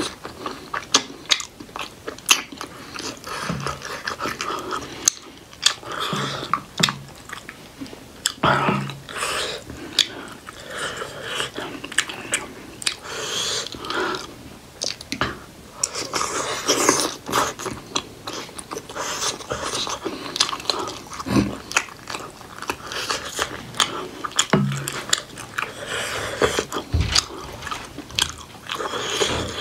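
Close-miked biting and chewing of steamed buffalo-meat momo dumplings dipped in spicy achar, with many short wet mouth clicks and a few low thuds.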